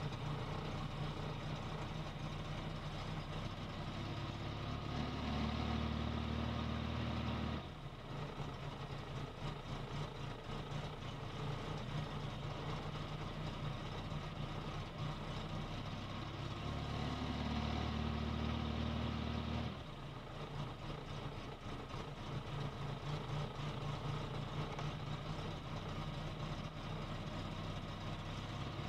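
Volvo 480's B20F four-cylinder engine idling unevenly with a recurring change in its note: twice it steadies and grows a little louder for a couple of seconds, then drops back suddenly, in an engine the owner is showing for a fault.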